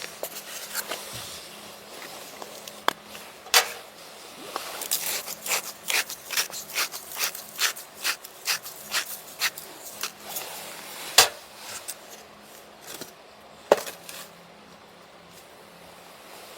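A run of sharp wooden-sounding knocks and scrapes, about two a second for several seconds, with a few louder single knocks before and after.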